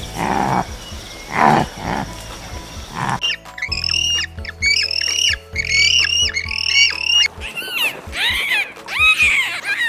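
Animal calls over background music: three rough, growl-like calls in the first three seconds, then a quick series of high, arching cries about twice a second.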